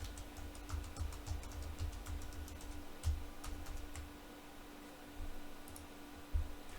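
Computer keyboard keys pressed in a scattered run, light separate clicks over a steady low hum and a low rumble, with a louder knock near the end.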